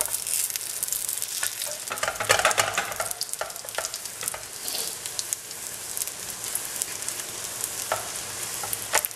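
An egg omelette sizzling in oil in a nonstick frying pan over low heat. A silicone spatula scrapes and taps around its edge every now and then.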